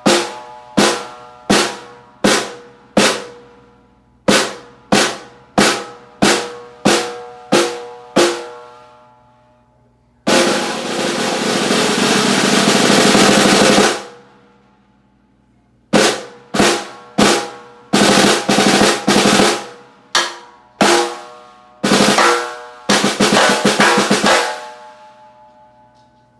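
Hard maple stave snare drum, 6.5 x 14 with die-cast hoops, tuned medium to high, being played: about a dozen single ringing strokes, then a sustained roll of about four seconds, then quicker strokes and short rolls near the end.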